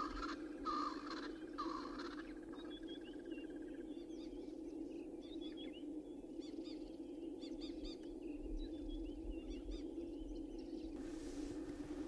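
A bird gives about four honking calls in quick succession, then a scatter of small birds chirps and twitters, over a steady low hum.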